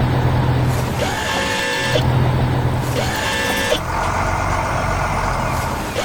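Truck engine sound effect running steadily with a low hum. A short pattern of tones recurs about every two seconds over it.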